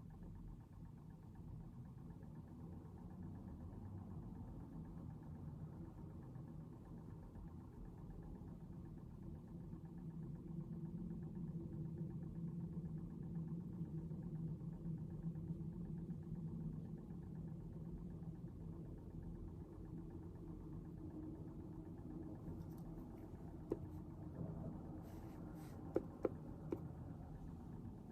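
Faint, steady low hum of background noise that swells a little midway, with a few sharp light clicks near the end.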